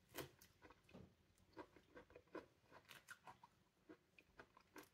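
Faint chewing of juicy pomelo flesh: a scatter of small wet clicks and crackles, mixed with fingers peeling the membrane from a segment.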